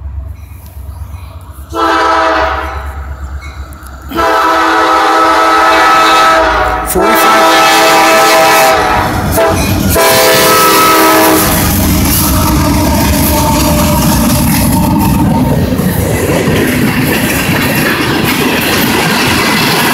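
CSX freight locomotive's multi-tone air horn sounding four blasts as the train approaches, over the low rumble of its diesel engines. About halfway through the horn stops and the locomotives pass close by, engines running and wheels clattering over the rail joints as the empty container cars follow.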